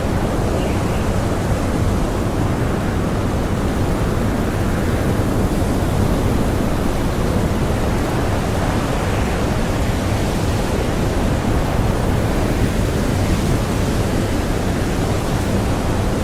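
Strong blizzard wind blowing steadily, a dense unbroken rush with a deep rumble underneath.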